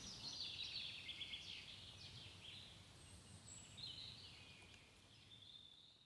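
Faint songbirds chirping and trilling over a quiet woodland hush, with one brief high whistle about three seconds in, the whole slowly fading away.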